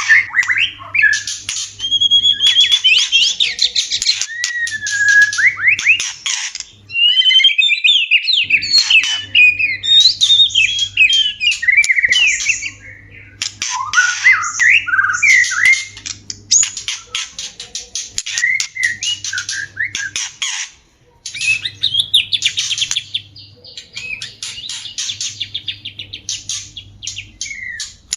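White-rumped shamas giving courtship (mating) calls: a fast, varied song of whistled glides mixed with harsh, rapid clicking rattles. It breaks off briefly about three-quarters of the way through.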